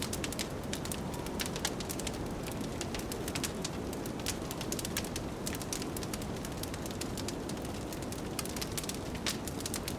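Wood fire crackling in a fireplace, with many quick irregular pops and snaps, over a steady low rumble of blizzard wind.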